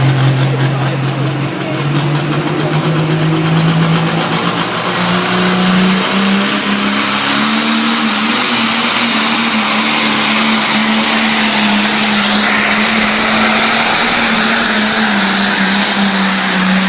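Pulling tractor's engine under full load, its pitch climbing in steps over the first several seconds, then holding at high revs as it drags the sled.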